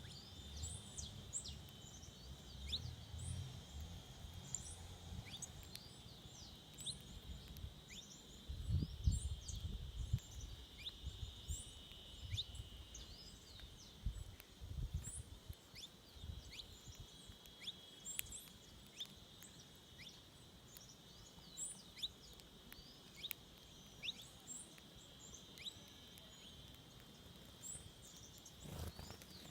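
Forest birds giving short, high chirps over and over, over a steady high-pitched hum. A few low rumbles come through around the middle.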